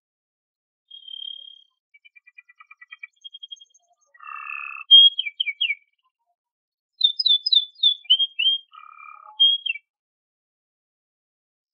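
Domestic canary singing a varied song. It opens with a held whistle, then a fast trill and a couple of harsh rasping notes, then loud runs of quick down-slurred notes. It stops about ten seconds in.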